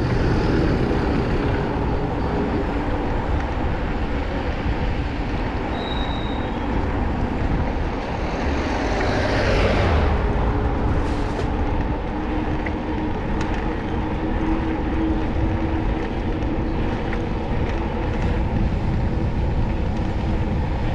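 Steady street-traffic and road noise heard from a moving bicycle, with wind rumbling on the microphone. A vehicle passes close, swelling about nine to ten seconds in, and a short high squeal comes about six seconds in.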